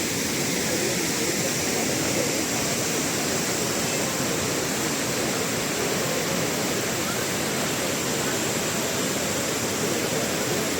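Abbey Falls, a waterfall, pouring in a steady, unbroken rush of falling water.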